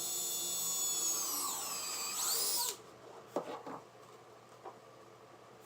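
Electric drill boring a hole into the wooden birdhouse panel for a nail. Its whine drops in pitch about two seconds in, revs briefly and then stops. A few light knocks follow.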